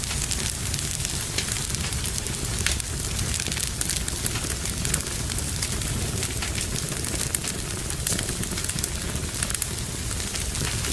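Fire burning in a fireplace, with a steady low rumble and frequent irregular crackles and pops.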